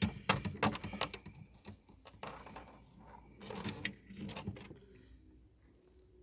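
Rummaging through fishing gear: hard small items clicking and clattering against one another, busiest in the first two seconds, then in short bursts, trailing off near the end.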